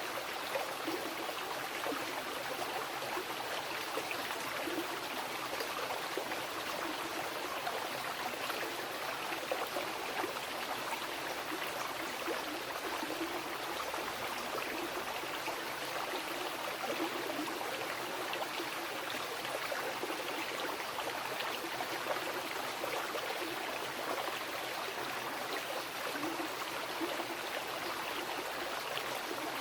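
Wild river flowing: a steady rush of water with small gurgles now and then.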